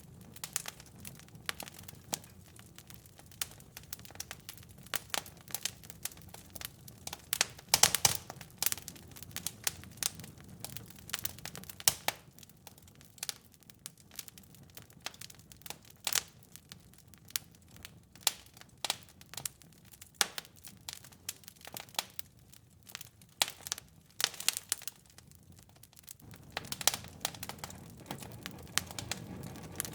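Fireplace fire crackling with frequent sharp pops, the loudest cluster about eight seconds in, over a low rumble that thins for a stretch in the middle and returns near the end.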